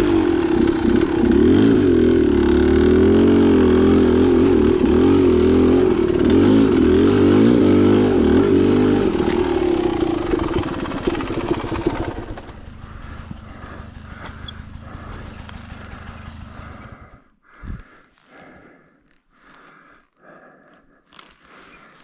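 Dirt bike engine running under load, its pitch rising and falling with the throttle for about twelve seconds. It then runs more quietly and cuts out about seventeen seconds in. A single low thump follows, then only faint scattered sounds.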